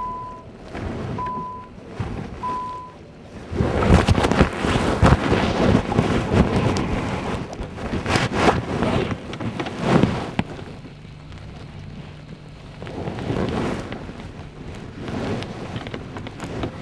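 Wind buffeting the microphone in uneven gusts, loudest in the middle stretch and easing near the end. Three short, high beeps sound in the first few seconds.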